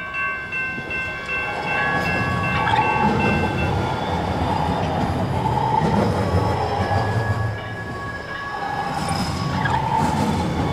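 Light rail train passing through a level crossing: a steady rumble of wheels on the rails with a hum, easing briefly before building again near the end.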